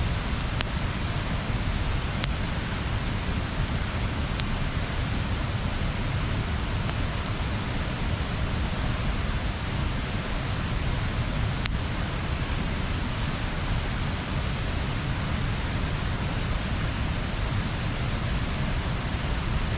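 Bonfire burning with a steady rushing hiss and low rumble, broken by a few single sharp pops from the burning wood.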